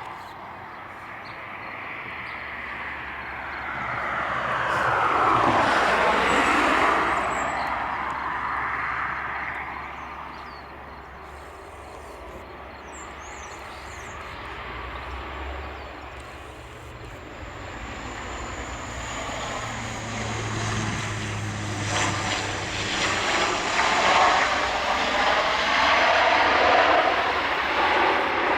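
Landing airliner's engines heard from the ground as it passes low. The sound swells to a peak about five seconds in, dies down, then builds loud again near the end.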